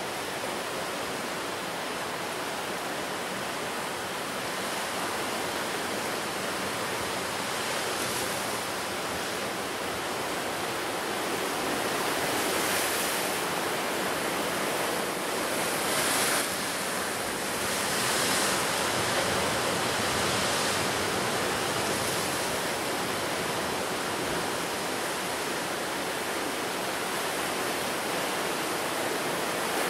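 Sea surf breaking and washing continuously on a rocky coast, a steady rush that swells louder for a few seconds in the middle with hissing crests.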